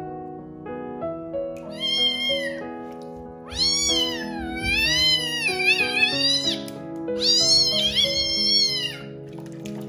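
A young ginger kitten, wet and held in a bath tub, meowing loudly three times: a short cry, then a long wavering one, then another, all high-pitched.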